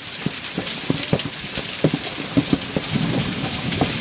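Hailstorm: a steady hiss of falling hail with many irregular sharp hits of large hailstones striking hard surfaces.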